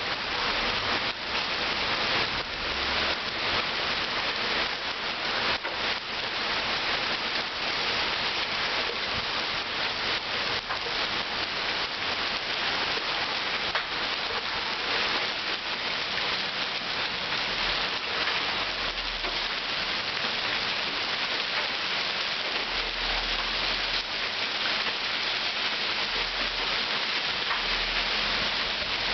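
Heavy rain falling steadily: a dense, even hiss with many separate drop hits close by.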